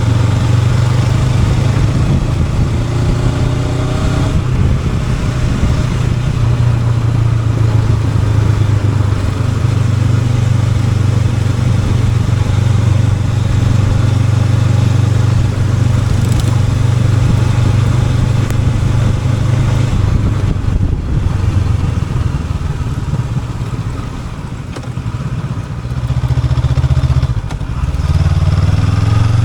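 Honda NX500's parallel-twin engine running while the motorcycle is ridden, with wind and road noise. The engine note holds fairly steady, eases off about three quarters of the way through, then rises again near the end as the throttle opens.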